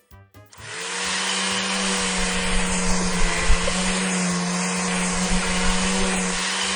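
A steady motor whir with a rushing noise over it, like a car-wash vacuum, blower or sprayer sound effect. It starts abruptly about half a second in and holds at an even pitch.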